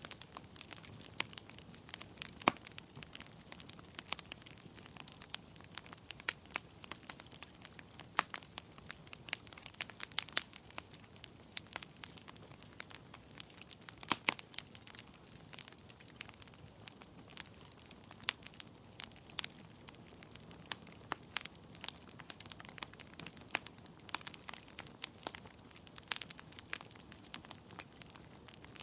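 Wood fire in a fireplace crackling: burning logs give irregular sharp pops and snaps, several a second, over a soft steady hiss, with the loudest pops about two and a half seconds in and about fourteen seconds in.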